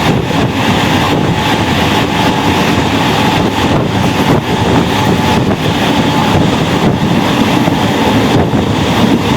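MEMU electric train running at speed, heard from on board: a steady rumble and rush of air, with a faint steady whine throughout.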